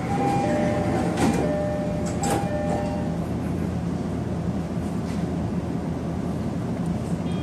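Tobu 70000 series commuter train running on the line, heard from inside the front car: a steady low rumble with a couple of sharp clacks and a few brief steady tones in the first three seconds.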